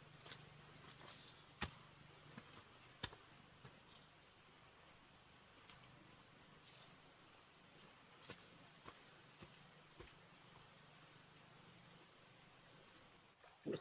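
Faint, steady high-pitched trilling of insects, typical of crickets, with a few sharp clicks or taps, the loudest about a second and a half in and again a little later.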